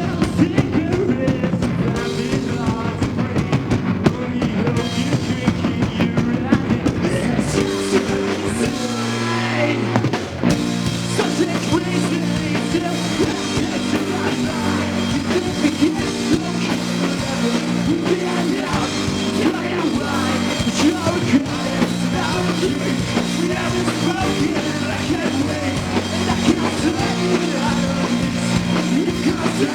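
Live rock band playing a song: drum kit, electric guitar and bass, loud and continuous.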